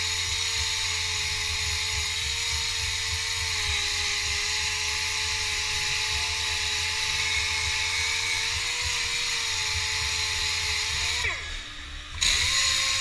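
A high-speed power tool, of the kind used for sanding and grinding in alloy wheel repair, running with a steady whine and hiss. Near the end it winds down and stops for about a second, then starts up again.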